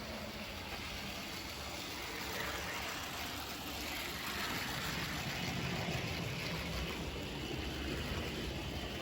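HO-scale model locomotive running on Kato sectional track: the steady whir of its motor and the rumble of wheels on rail, growing louder about halfway through as the train draws nearer.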